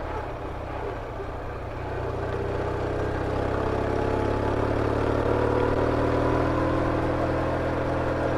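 BMW R69S's 594cc air-cooled flat-twin engine running under way, its pitch rising slowly from about two seconds in as the bike gathers speed.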